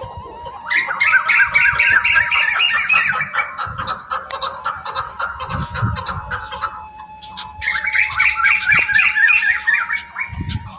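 Birds squawking in rapid, chattering runs of calls, in two bouts: one early on lasting about three seconds and another near the end.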